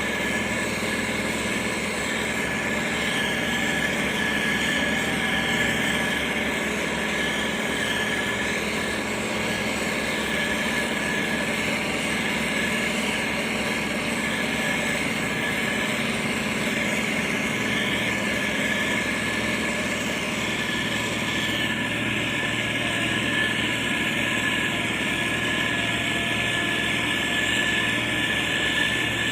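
Motor grader's diesel engine running steadily at an even pitch, with a steady high-pitched whine over it.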